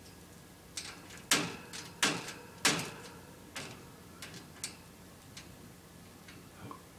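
A series of sharp, irregular taps or knocks: three louder ones in quick succession, each a little over half a second apart, about a second in, then scattered fainter ticks.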